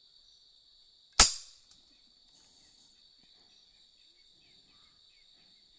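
A single sharp shot from a Sharp Innova pump air rifle about a second in, fading within half a second, over insects droning steadily at a high pitch.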